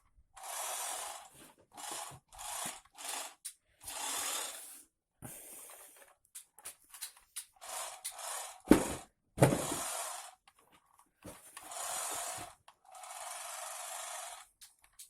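Small electric motors of a Soviet radio-controlled toy truck running in a dozen or so short stop-start bursts as it is driven and steered from the remote. Two sharp knocks come about two-thirds of the way through, the loudest sounds.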